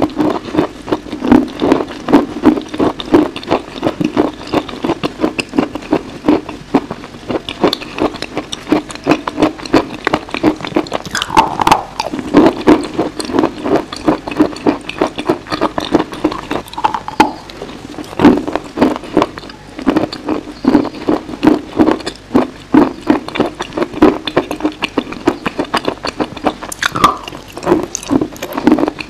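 Close-miked eating sounds: crisp crunching bites and chewing, repeating several times a second.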